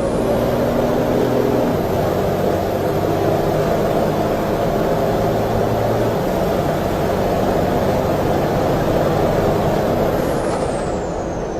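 MAN race truck's diesel engine running hard under load, its note shifting about two seconds in and again about six seconds in, with a faint high whistle above it that rises at the start and falls away near the end.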